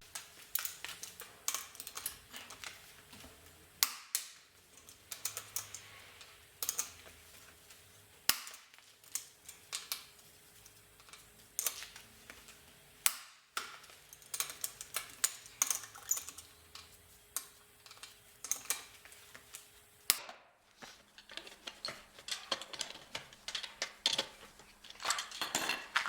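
Irregular sharp metallic clicks and knocks, a few a second with short pauses, as hand tools and wheel bolts are handled while working on a car wheel.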